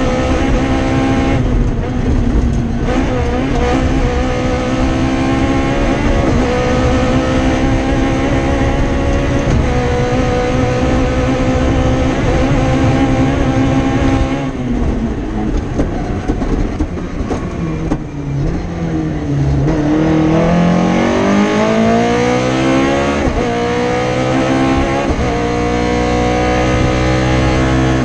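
Toyota Starlet KP61 rally car's 4A-GE four-cylinder engine heard from inside the cabin, revving hard and changing gear. About halfway through the revs fall away in a long lift, then climb steadily again.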